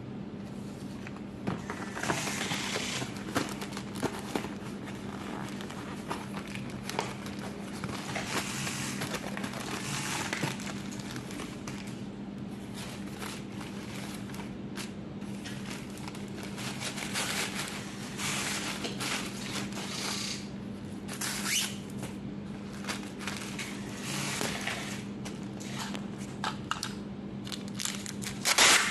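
Close handling noises: irregular rustling, scraping and clicking over a steady low hum.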